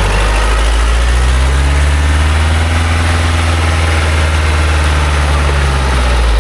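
Engine of a small loaded logging truck running hard and steady, its pitch rising slowly and then easing back down.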